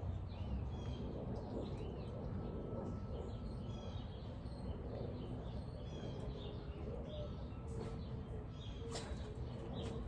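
Birds chirping, many short calls scattered throughout, over a steady low outdoor rumble.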